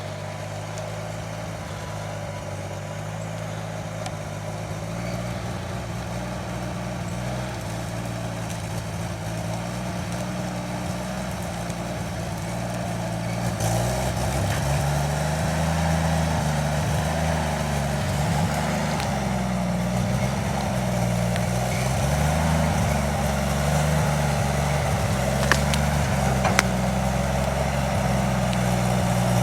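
Engine of a WWII-era CMP army truck idling. Partway through it grows gradually louder and its speed starts to rise and fall slowly; two faint clicks come near the end.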